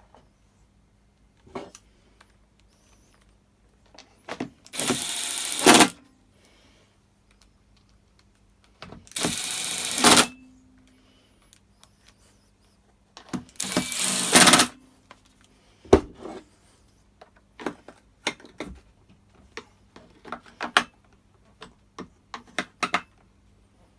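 A power screwdriver run in three bursts of about a second each, driving in the screws that hold the pull-start housing on a Stihl BR600 backpack blower, with clicks and knocks of plastic parts and tools being handled between them.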